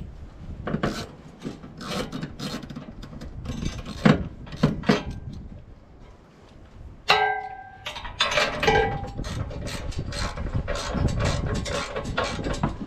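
Hand ratchet wrench clicking and metal tools scraping as a hitch rail bolt is tightened by hand, with a ringing metal clink about seven seconds in. The bolt is being snugged up before it is torqued down.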